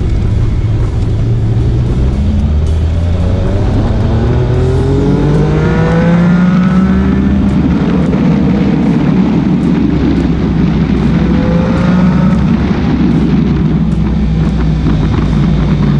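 Motorcycle engines running with a steady low drone; an engine climbs in pitch as it accelerates a few seconds in, and again about three quarters of the way through.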